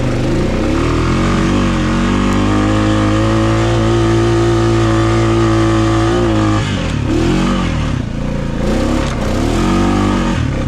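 2020 Honda Rubicon ATV's single-cylinder engine revving under load: the pitch climbs over the first few seconds and holds high and steady. About two-thirds of the way in it drops, then rises and falls several times as the throttle is worked.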